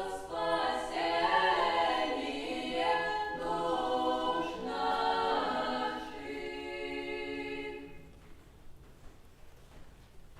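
Unaccompanied vocal ensemble singing Old Russian music in several parts. The phrase settles onto a quieter held chord that stops about eight seconds in, leaving the hall quiet.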